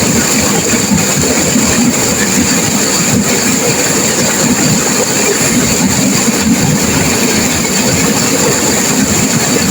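River water rushing and crashing through turbulent rapids, a loud steady roar without pause.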